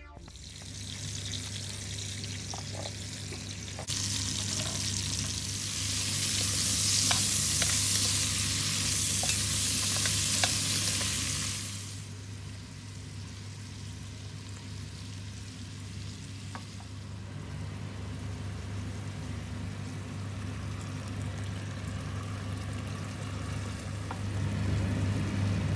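Onion, carrot and aromatics sizzling in oil in an enamelled cast-iron pot, loudest for several seconds, then settling to a softer sizzle about twelve seconds in. A few light clicks of stirring, and a steady low hum underneath.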